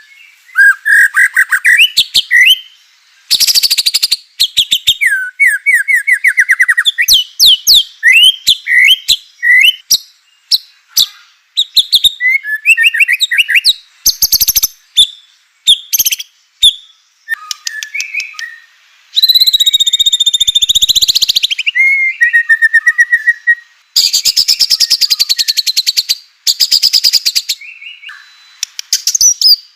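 White-rumped shama (murai batu) singing a fast, varied song of whistled notes and rising and falling trills, broken by loud harsh rattling calls about two-thirds of the way through.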